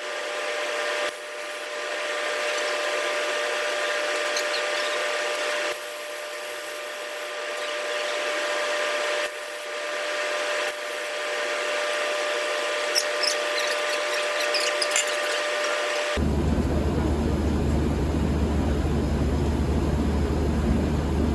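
Welding on an exhaust pipe, a hissing crackle that stops and starts several times as the trigger is released and pulled again. About sixteen seconds in it cuts to a 2001 Honda CR-V's B20Z four-cylinder engine idling steadily through a freshly welded straight-pipe exhaust with no muffler, a deep, steady rumble.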